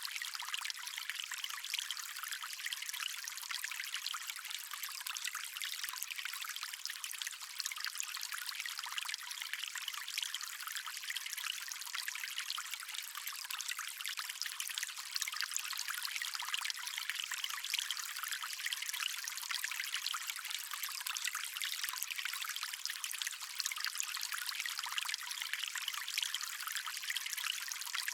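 Stream water flowing and trickling steadily: an even, high-pitched rush with no low rumble and no separate splashes.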